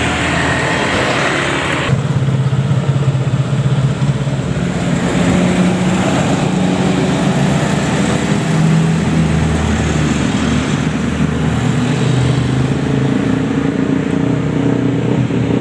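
Heavy road vehicle's engine running with road noise, its pitch shifting up and down as it drives; a hissing noise cuts off abruptly about two seconds in.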